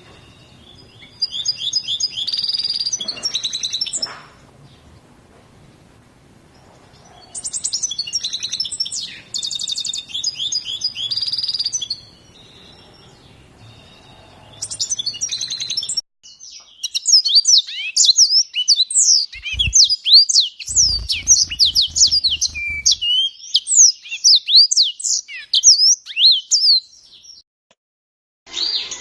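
Small cage songbird singing: bursts of high twittering song a few seconds long with short pauses between, then a sudden change to a long, dense run of quick sweeping chirps that stops about a second and a half before the end.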